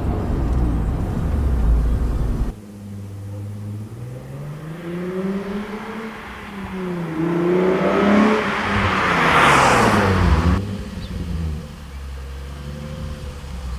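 Nissan 350Z's 3.5-litre V6 through a Bassani aftermarket exhaust. It runs loud at first, then drops abruptly. It is then revved up and down several times, the biggest rev bringing a raspy exhaust note about two-thirds through, before it settles back to a steady idle.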